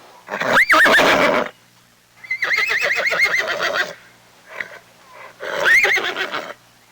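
Horse neighing three times, each whinny a high, quavering call; the middle one is the longest.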